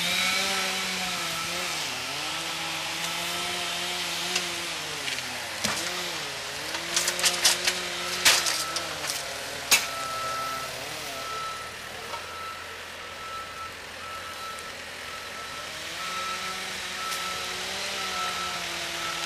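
A wheeled machine's engine running as it carries a log, its pitch dipping and recovering several times as the load changes. A cluster of sharp knocks comes about seven to ten seconds in, and a faint, evenly broken high beeping runs through the second half.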